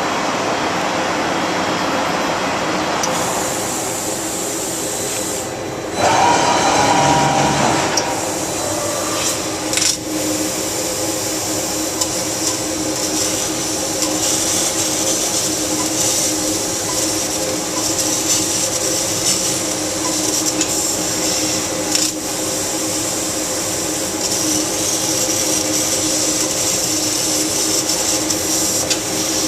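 LVD laser cutting machine running: a steady mechanical hum with a high hiss, a louder stretch with a whining tone about six seconds in lasting about two seconds, and a few sharp clicks.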